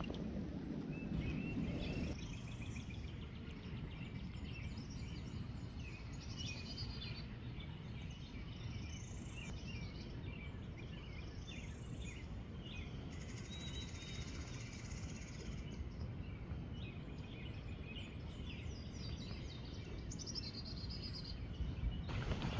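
Several songbirds singing and calling: repeated trills, chirps and quick upward-sweeping phrases, over a steady low rushing background.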